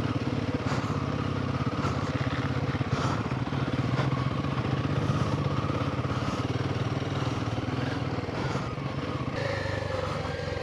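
Royal Enfield Himalayan 450's single-cylinder engine running steadily as the motorcycle rides along, its pitch holding even and easing slightly near the end.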